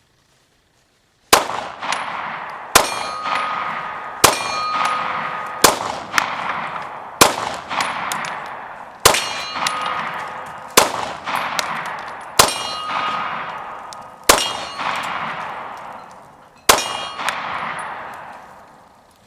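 FMK9C1 9mm pistol firing Federal 115 grain full metal jacket rounds: ten shots at a steady pace, one every one and a half to two seconds. Each shot is followed by a long ringing tail.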